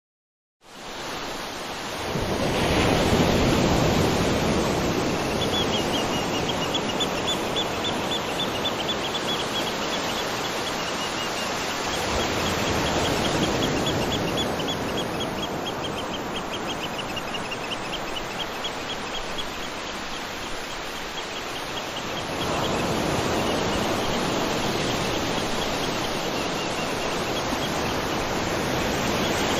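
Waterfall: rushing, splashing water as an even roar that swells and eases every ten seconds or so. A fast, high pulsing trill runs over it from about five seconds in until about twenty-two seconds.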